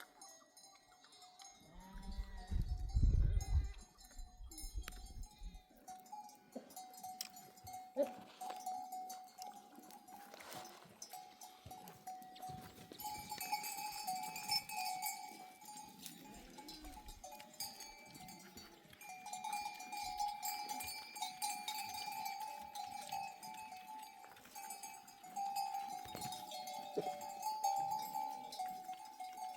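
Bells on a grazing flock of sheep and goats ringing on and off, with an occasional bleat. A brief low rumble, the loudest sound, comes about two seconds in.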